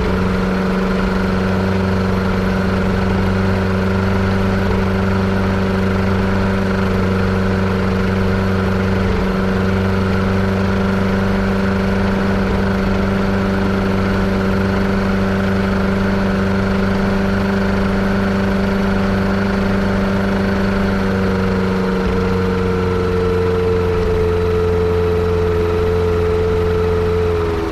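Yamaha Apex four-cylinder engine in a Kitfox airplane running steadily with its propeller turning, the engine being checked for a misfire and a suspected vacuum leak. Its pitch dips slightly about three-quarters of the way through and drops again near the end.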